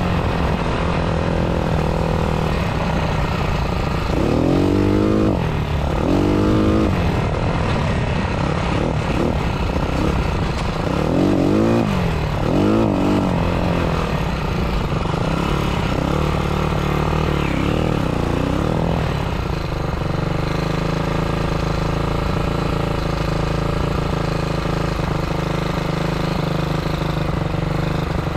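A small four-wheeler's 250 motorcycle engine revving up and down repeatedly as it is ridden. About two-thirds of the way through it settles into a steady, even note.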